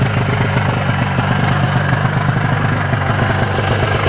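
1987 Ski-Doo Safari 377's two-cylinder two-stroke engine idling steadily as it warms up, now drawing fuel through its line.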